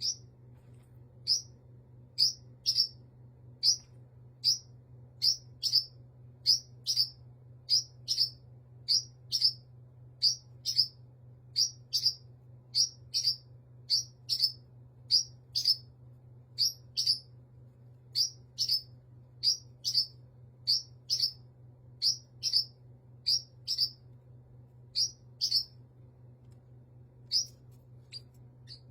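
Baby parrot chirping over and over in short, high calls, about two a second and often in pairs, with a brief pause near the end. A faint steady low hum runs underneath.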